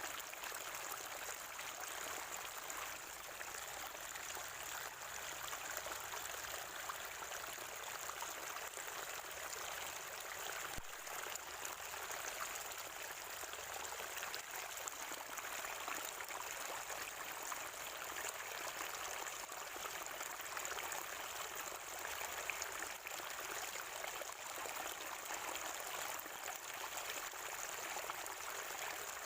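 Natural spring water flowing and gurgling steadily over stones, an even splashing without pauses or changes.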